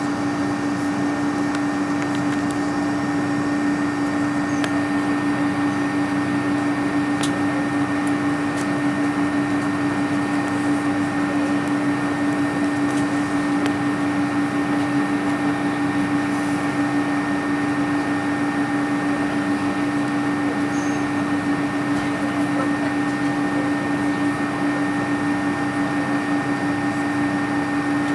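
Steady cabin hum inside an Airbus A310 on the ground before takeoff, with a constant low droning tone and fainter higher whines over an even rush of air.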